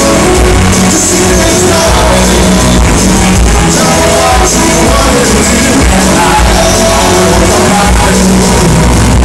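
A live band playing loud amplified music with vocals during a sound check, captured close on a phone microphone.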